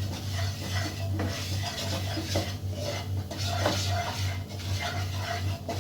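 A spatula stirring and scraping gram flour and chilli powder around a frying pan of hot oil, in repeated uneven strokes, with a steady low hum underneath.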